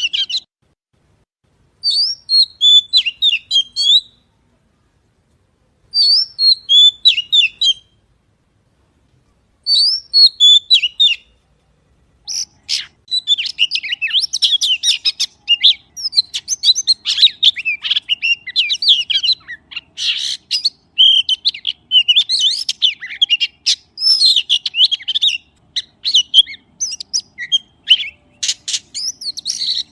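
Magpie singing: three short phrases of quick, high, twittering notes about four seconds apart with silence between, then near-continuous busy song from a little under halfway through.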